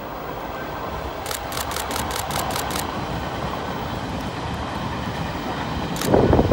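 Train headed by two electric locomotives approaching, growing steadily louder, with a quick run of sharp ticks partway through. About six seconds in it reaches the spot and the wheels start clacking loudly over the rail joints.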